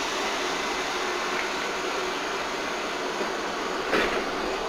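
Electric commuter train at a station platform: a steady whirr and hiss of its running equipment with a continuous hum. A single sharp knock comes about four seconds in.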